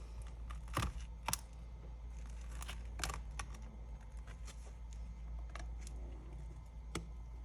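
Light, irregular clicks and taps of small repair tools and parts as the iPad's screen is pried and lifted, a few sharper clicks among them, over a low steady hum.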